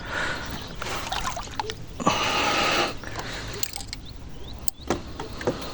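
Water splashing about two seconds in, for nearly a second, with smaller splashes and clicks around it: a hooked crucian carp thrashing at the surface.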